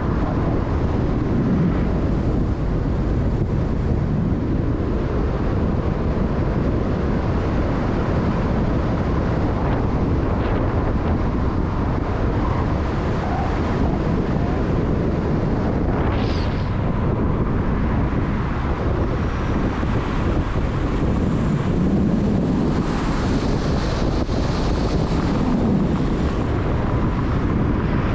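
Loud, steady rush of wind buffeting the microphone over the low rumble of a moving vehicle.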